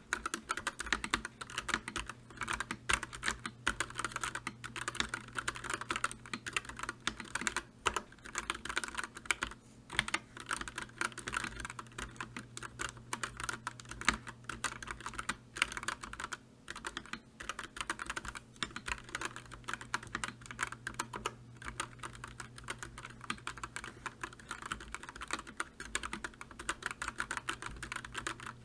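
Continuous fast typing on a computer keyboard: a dense run of key clicks with a few brief pauses, over a faint steady low hum.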